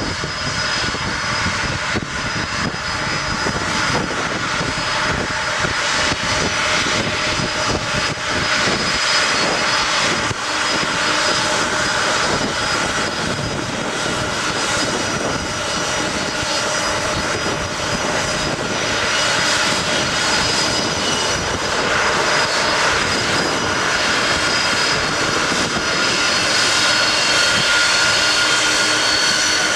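Jumbo jet's engines running with a steady whine over a loud rush, growing gradually louder toward the end.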